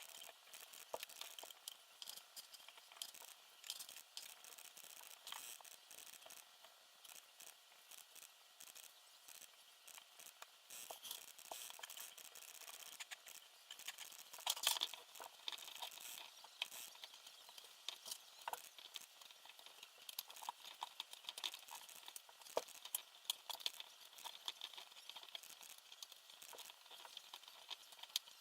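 Faint, irregular clicks, taps and light rattles of small hard parts being handled, over a steady hiss.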